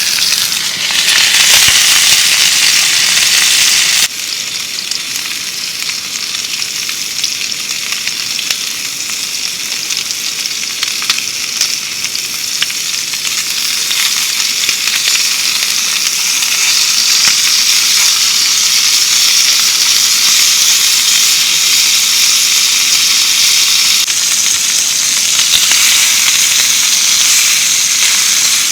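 Steady rain falling, a dense hiss with many fine drop ticks. It is louder at first and drops abruptly to a softer level about four seconds in.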